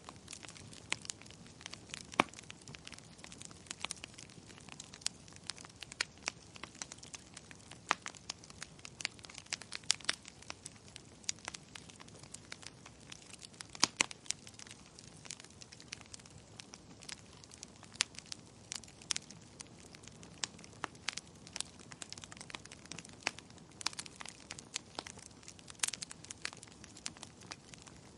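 Fire in a fireplace crackling: irregular sharp pops and snaps, several a second, over a soft steady hiss.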